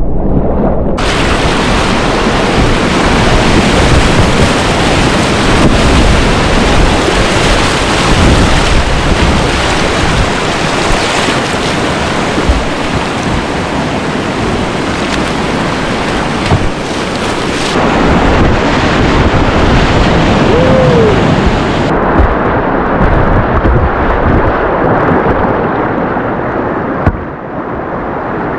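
Whitewater rapids rushing loudly, heard close up from the kayak, with water and wind buffeting the microphone. About 22 seconds in the sound turns duller as the hiss drops away.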